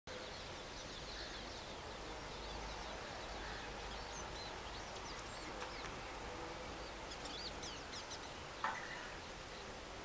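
Small birds chirping: many quick, high chirps and short trills, scattered over a steady outdoor background noise, with one short, sharp sound near the end.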